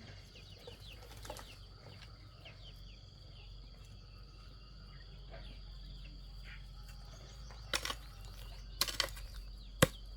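Outdoor ambience of small birds chirping over a steady high insect drone, with a few sharp knocks in the last few seconds, the loudest just before the end.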